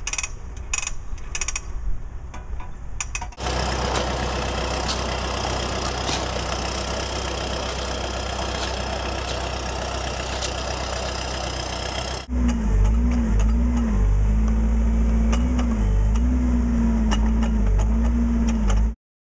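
Hi-rail backhoe engine running under load, with scattered knocks at first. About twelve seconds in, a louder, closer engine note takes over, its pitch dipping and rising again and again as the machine is worked, then it cuts off abruptly near the end.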